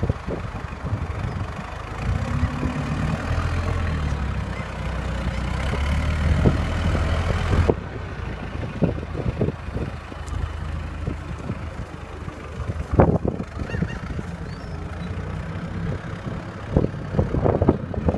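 Heavy truck's engine running, with a hiss that cuts off suddenly about eight seconds in and scattered knocks and clatter in the second half.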